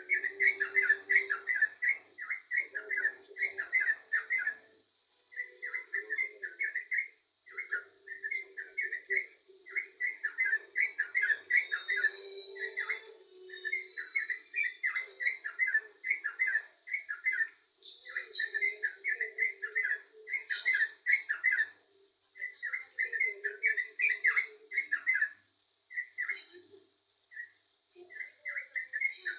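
Yellow-vented bulbul singing persistently: short phrases of rapid notes repeated over and over, with brief pauses between them.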